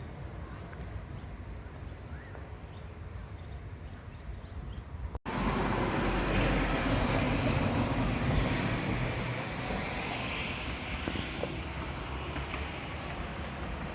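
Strong wind gusting ahead of a thunderstorm: a low rumble of wind on the microphone with a few faint bird chirps, then, after a brief dropout about five seconds in, a louder steady rush of wind that slowly eases.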